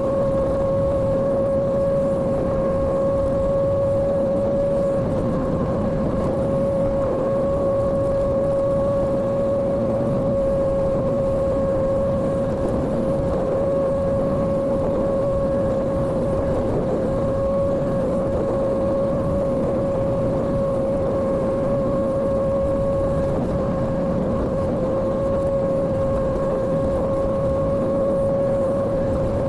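Mini construction machine's engine running at a constant, high speed under work, with a steady whining drone over a rumble.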